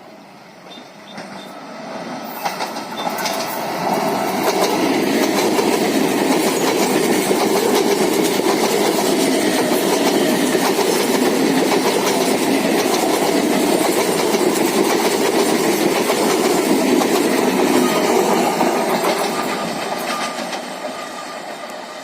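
Indian Railways electric suburban local train (EMU) passing, wheels clattering over the rail joints. It swells in over the first few seconds, runs loud for about fifteen seconds, then fades away near the end.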